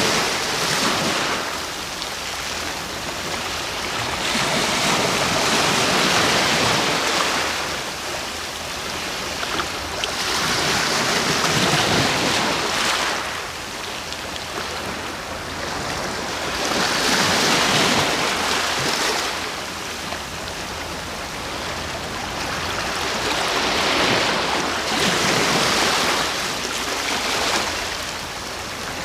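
Sea waves breaking and washing on the shore in slow, even surges, each swell of surf rising and easing every five to seven seconds.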